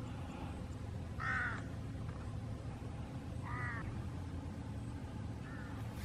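A bird calling twice in the background, two short calls a little over two seconds apart, over a steady low background noise.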